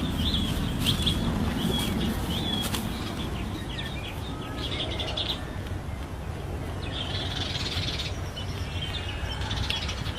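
Birds chirping in short, repeated high calls that come in clusters, over a steady low rumble.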